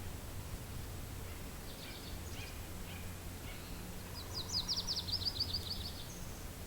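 Steady low wind noise with small birds chirping faintly. About four seconds in, one bird sings a quick run of about a dozen high notes that fall slightly over about a second and a half; this is the loudest sound.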